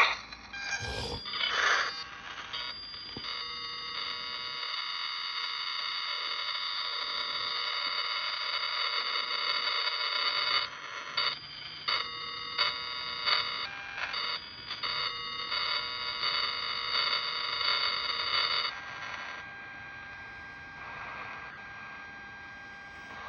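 Ultrasonic detector's speaker giving a steady buzzy electronic whine made of many stacked tones. It cuts out briefly several times midway and drops quieter about 19 seconds in.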